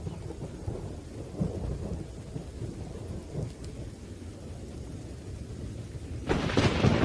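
Thunderstorm: low, rolling thunder under rain, then a sharp, loud thunderclap breaking in near the end.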